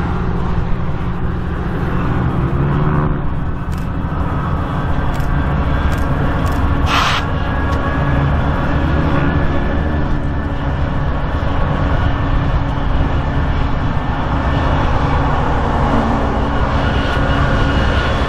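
Two BNSF diesel-electric freight locomotives passing under power, a steady low engine drone, then the rumble of tank-car wheels on the rails. A brief hiss about seven seconds in.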